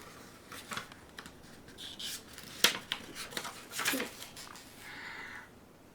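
Paper rustling with a few soft clicks and scrapes as a page of a picture book is turned.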